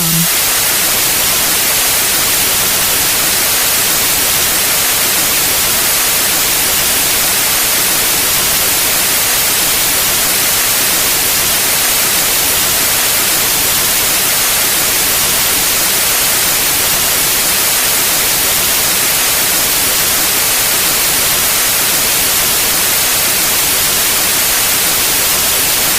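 Pure white noise: a steady, unchanging hiss spread evenly across the whole range, loudest in the highs, with no rhythm or tones.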